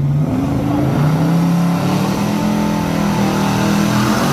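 Race car engine at full throttle, accelerating hard down a drag strip with its pitch climbing in steps through the gears.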